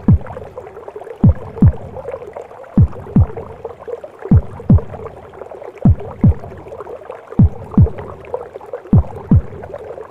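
A mother's heartbeat as heard in the womb: slow, even lub-dub double thumps, about one pair every second and a half, over a steady whooshing womb noise.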